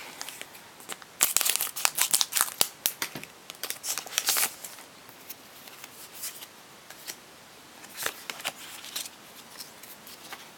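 Foil Pokémon booster pack wrapper being torn open and crinkled, in dense crackling bursts over the first few seconds, then softer scattered rustles and clicks.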